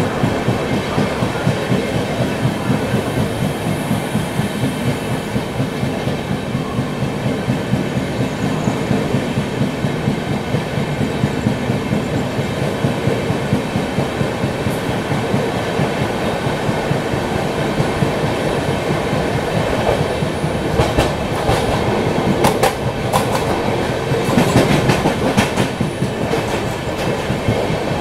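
Express passenger train running at speed, its wheels clattering steadily over the rail joints. A stretch of sharper, busier clacks comes about three-quarters of the way through.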